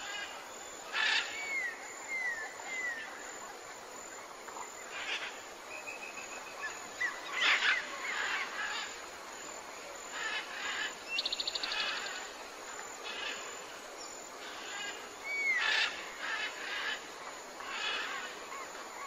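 Several wild birds calling: short whistled notes that slide down in pitch, scattered chirps and a quick rattling trill about eleven seconds in, over a steady outdoor hiss.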